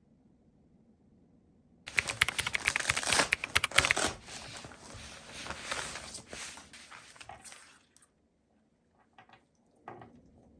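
Close handling noise: a sudden burst of many quick clicks and rustles about two seconds in, loudest for a couple of seconds, then softer rustling that dies away, followed by a few faint taps near the end.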